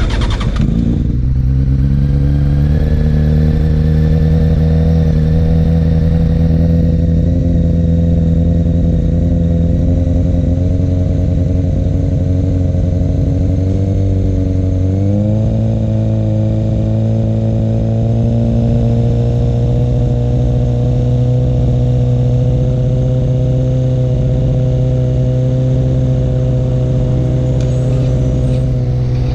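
Harley-Davidson Dyna Low Rider's V-twin catching on the starter and then idling steadily through Two Brothers Racing aftermarket exhaust pipes. About halfway through, the idle steps up a little and holds.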